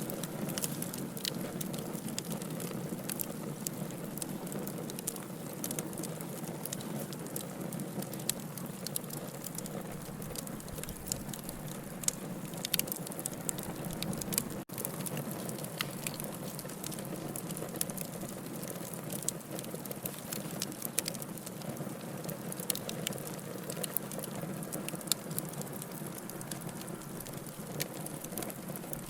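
Wood fire burning in a fireplace: a steady hiss and low rumble of flames with many small, irregular crackles and pops. The sound cuts out for an instant about halfway through.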